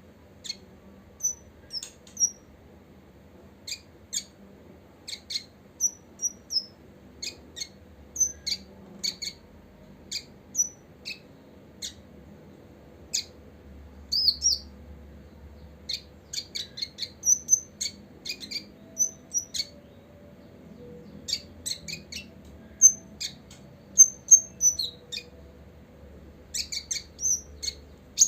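Copper-throated sunbird calling: a string of short, sharp, high chips and twitters, irregularly spaced and bunched into quick runs, coming thicker near the end.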